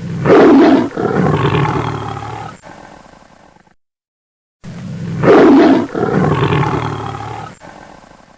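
Tiger roaring: the same roar is played twice, about four and a half seconds apart. Each roar lasts about four seconds, is loudest in its first second, and trails off.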